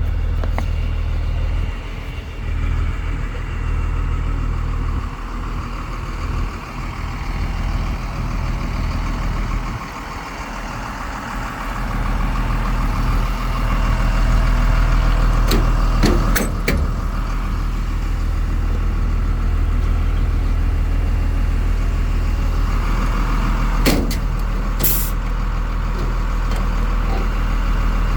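Cummins 5.9 inline-six diesel in a Ford F650 truck running steadily. A few sharp clicks come about halfway through, and a brief hiss follows near the end.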